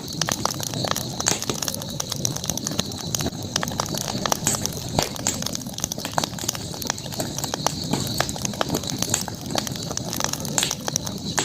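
Campfire crackling with frequent irregular sharp pops over a low rumble of burning wood, with a steady high-pitched hiss behind it.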